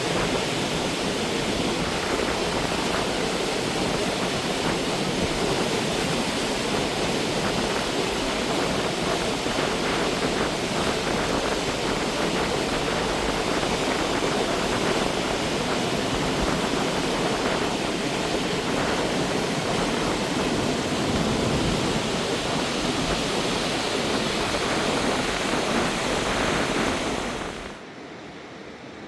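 Fast-flowing river rushing, a loud, steady roar of water; it cuts off suddenly near the end, leaving a quieter steady hiss.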